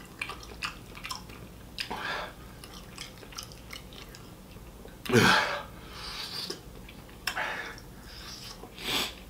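Close-up chewing and mouth clicks of a person eating fried chicken off the bone. A few short, sharp breath noises cut through, the loudest about five seconds in.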